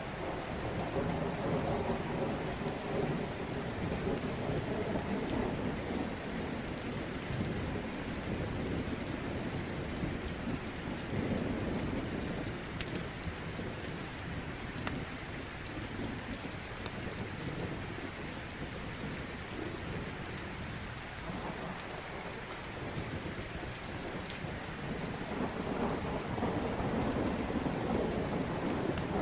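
Steady rain with low rolling thunder that swells near the start, briefly around the middle and again near the end. Scattered sharp crackles of a wood fire sound over it.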